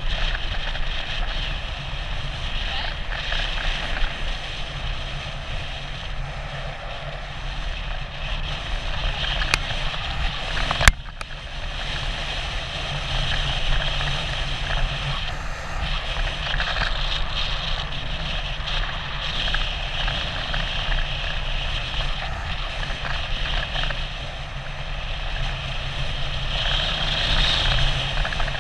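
Steady wind rush and rumble on a bike-mounted camera's microphone during a bicycle ride, with one sharp knock about eleven seconds in.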